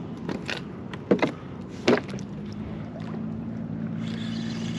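A few sharp knocks against the kayak, the loudest two near one and two seconds in, then the kayak's electric trolling motor starts up and runs with a steady low hum.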